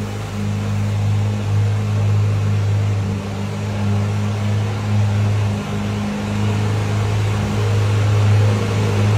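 Ferrari F8 Spider's 3.9-litre twin-turbo V8 idling steadily through an aftermarket Fi Exhaust system, on the raised idle of a cold start. A loud, deep, even drone that holds its pitch.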